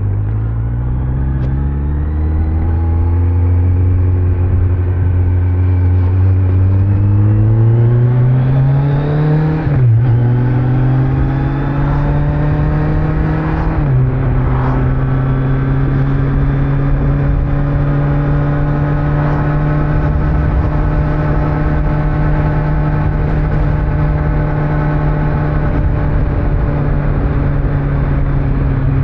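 Kawasaki Z900's 948 cc inline-four engine under way on the road, stock exhaust, with wind and road noise. It pulls up in pitch and shifts up twice, about ten and fourteen seconds in, then cruises at a steady engine speed.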